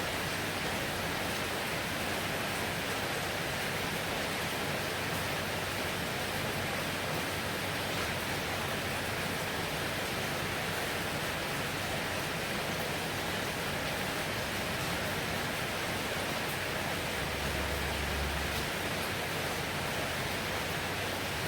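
Heavy rain pouring steadily: a dense, even hiss with faint scattered drop ticks, and a short low rumble about three quarters of the way through.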